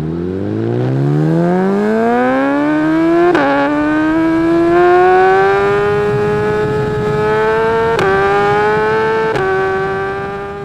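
Motorcycle engine accelerating hard through the gears, its pitch climbing steadily, with one upshift about a third of the way in and two more near the end.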